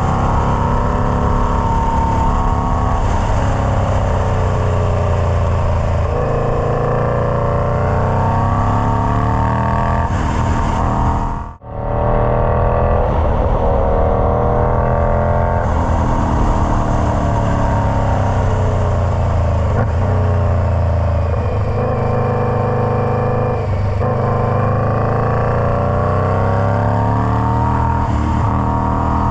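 Indian Scout Bobber V-twin running through a Freedom Performance Combat 2-into-1 exhaust, its engine speed falling and rising over several seconds. The sound cuts out for a split second about halfway, then carries on.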